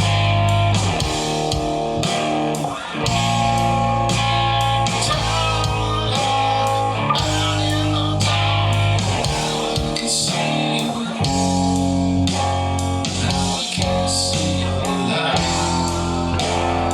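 Rock recording with guitars over long held bass notes and a steady beat, from an original song being mixed.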